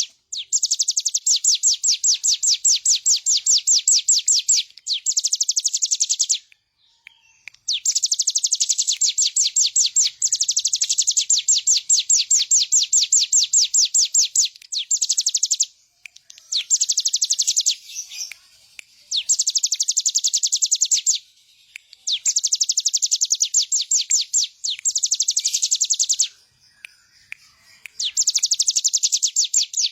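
Ciblek gunung (hill prinia) singing in full voice: loud, very fast trilled phrases of rapidly repeated high notes, each lasting one to four seconds and repeated over and over with short pauses between them.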